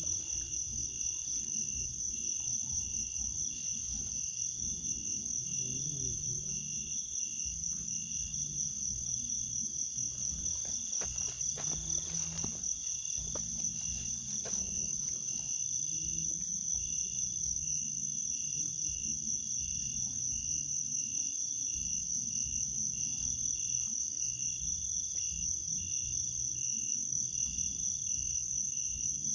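Insect chorus, likely crickets: a continuous high trill with a second, lower pulsing trill, over low rumbling noise, with a few sharp clicks about halfway through.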